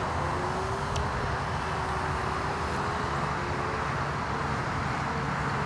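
Multiplex FunCub RC plane's electric motor and propeller droning steadily in flight, its pitch drifting a little with the throttle.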